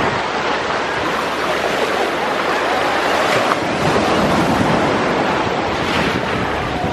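Ocean surf washing, with wind buffeting the microphone: a steady, loud rush of noise.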